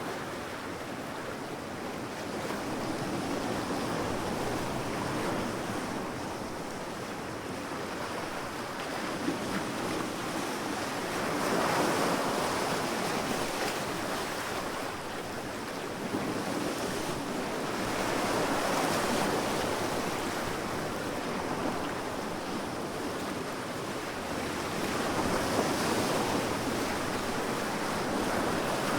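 Sea waves breaking and washing in, a steady rush of surf that swells roughly every seven or eight seconds.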